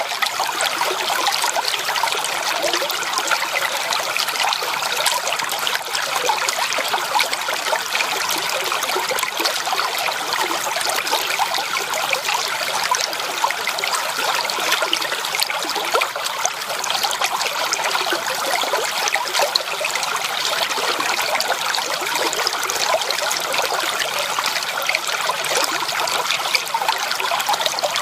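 Water running over rocks in a stream: a steady, even babbling and splashing with no breaks.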